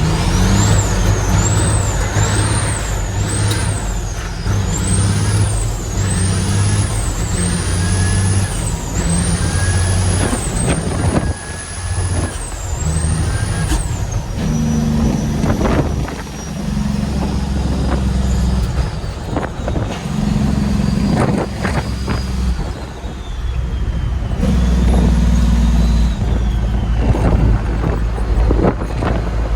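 Heavy diesel truck accelerating through the gears. A high turbo whistle climbs with engine speed and drops back at each gear change, about eight times in the first half. After that the engine eases off, with a few short sharp sounds and the whistle falling slowly away.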